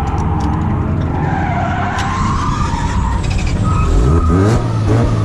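Drift cars on track: engines revving hard and tyres skidding, with the revs rising and falling about four seconds in.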